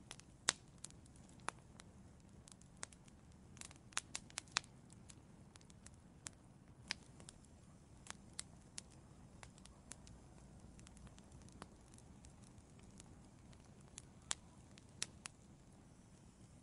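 Wood fire crackling in an outdoor fireplace: irregular sharp pops and snaps, several in quick succession about four seconds in, over a faint low rumble.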